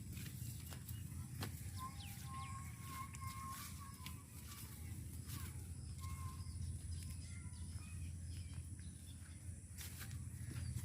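Outdoor ambience: a steady low rumble with scattered light clicks and a few faint bird chirps.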